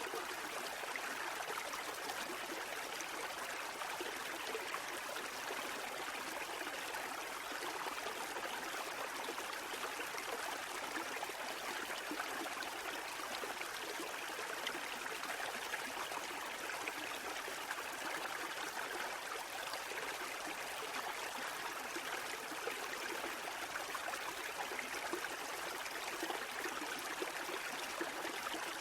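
Water rushing and trickling steadily and evenly, with no swells or breaks and little deep rumble.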